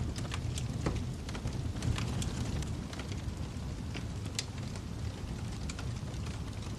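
Wood fire crackling in a fireplace: a steady low rumble of burning with irregular sharp pops and snaps, several a second early on and sparser later.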